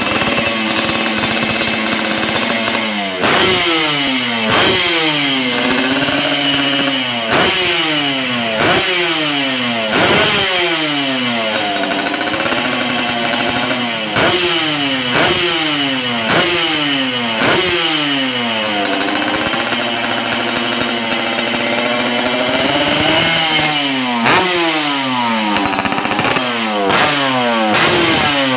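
Yamaha RX-King two-stroke single-cylinder engine through a racing exhaust, revved over and over in quick blips, each a sharp rise in pitch that falls straight back, with a few longer held revs in between.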